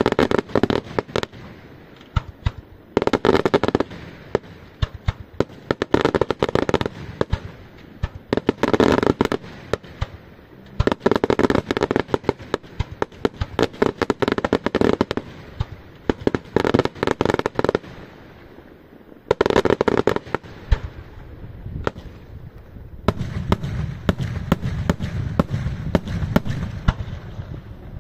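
Daytime aerial fireworks bursting in rapid volleys of sharp bangs, the volleys coming every two to three seconds. About three quarters of the way through, the firing turns into a denser, continuous barrage with a deeper rumble.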